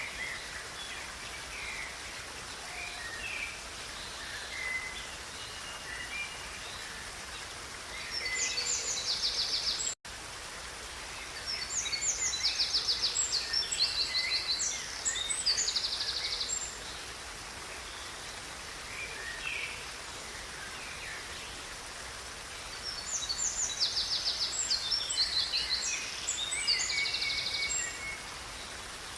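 A river running steadily with birds singing over it: scattered chirps, and three spells of loud, rapid trilled song. The sound cuts out for a split second about ten seconds in.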